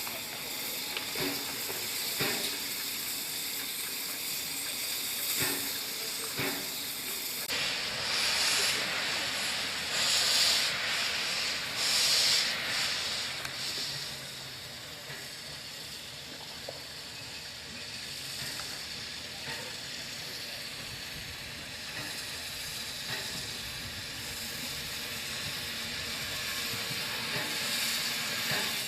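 Steam locomotive hissing steam, with louder gusts of hiss from about a quarter of the way in, then a steadier, quieter hiss.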